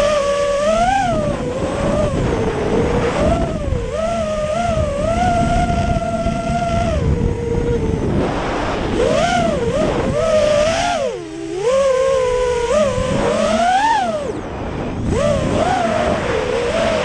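FPV quadcopter's Emax 2205 2300kv motors and three-blade DALProp Cyclone props whining. The pitch swoops up and down constantly with throttle changes, and dips low briefly about eleven seconds in. A rough wind rumble runs underneath.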